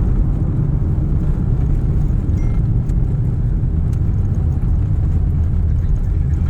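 A steady, loud low rumble with no distinct pitch.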